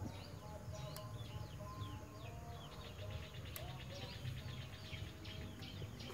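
Small birds chirping, many short quick notes over one another, over a low steady background rumble.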